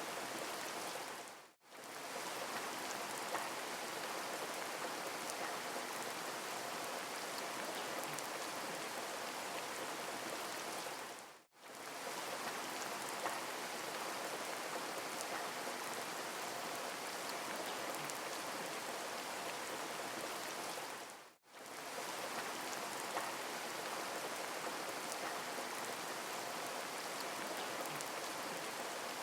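Steady rain falling, an even hiss of many drops with faint individual drop ticks. The sound fades out to silence for a split second and straight back in three times, about ten seconds apart: the seams of a looped rain recording.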